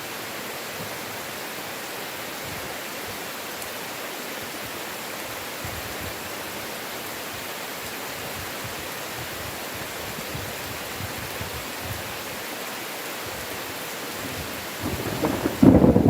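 Heavy rain falling as a steady, even hiss. Near the end a loud, low rumble of thunder breaks in and builds.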